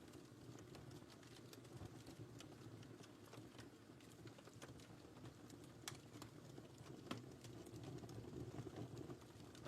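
Wood fire burning in a fireplace, faint: a low steady rush with scattered small crackles and pops, one sharper pop about seven seconds in.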